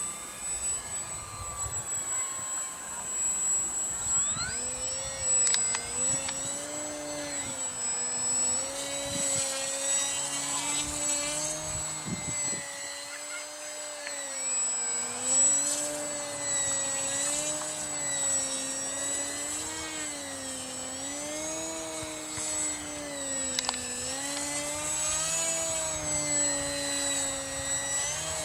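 Radio-controlled model aircraft engine droning in flight, starting about four seconds in, its pitch swinging slowly up and down as the plane passes and turns, over a thin steady high whine.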